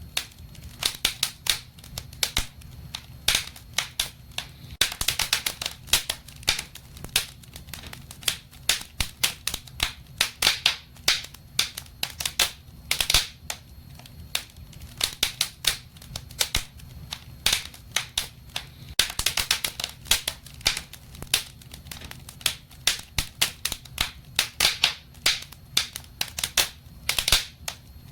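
Wood fire burning in a fireplace, crackling and popping in irregular clusters of sharp snaps over a low, steady rumble of the flames.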